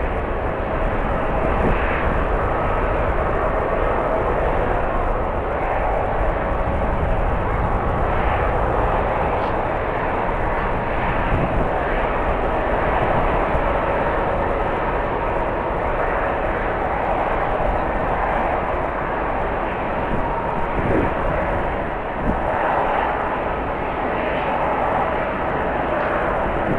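Jet airliner engines running with a steady noise and faint whine, with strong wind buffeting the microphone.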